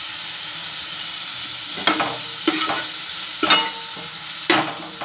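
Green chillies sizzling in hot oil with spices, just after lemon juice has been squeezed into the pan. From about two seconds in, a spatula stirs and scrapes them, knocking against the pan four times with a short ringing clatter.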